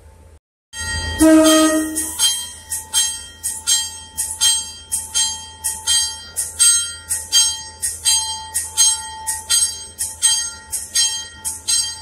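A passenger train's short horn toot, then a bell ringing steadily about twice a second as the train starts moving along the platform.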